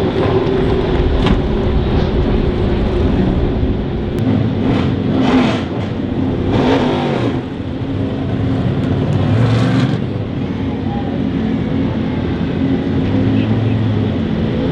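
Race car engines running, with louder surges of revving, about five, seven and nine and a half seconds in.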